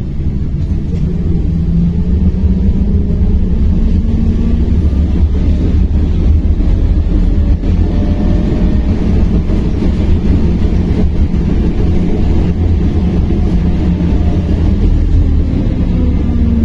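Belkommunmash BKM-60102 electric public-transport vehicle under way between stops, heard from inside the cabin: a steady low running rumble, with the electric drive's whine rising and falling in pitch as it speeds up and slows.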